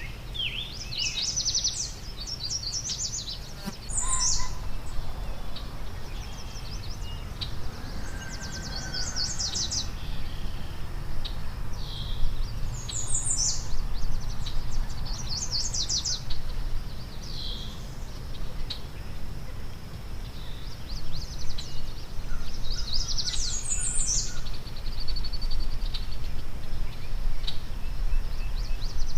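Wild songbirds singing and chirping in short rapid trills every few seconds, over a steady low outdoor rumble.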